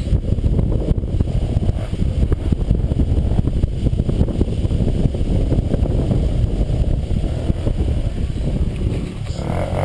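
Heavy wind rumble buffeting the microphone with the drone of a moving dirt bike, a steady low roar that runs on without a break.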